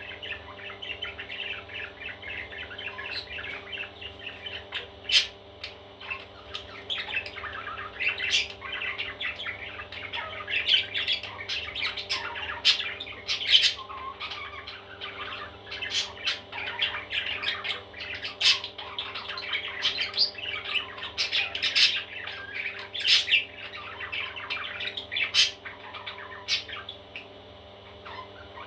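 Baby parrots squawking and chirping in a steady stream of short, overlapping calls, with a number of sharper, louder squawks standing out, over a steady low hum.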